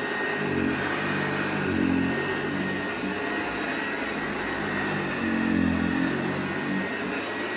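1958 Hoover Junior 1334 upright vacuum cleaner running on carpet, its motor with a steady high whine and a low rumble that swells twice as it works the floor.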